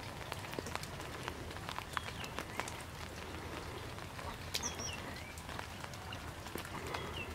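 Steady light rain, an even hiss with many sharp drop ticks scattered through it. A bird chirps briefly a few times over it.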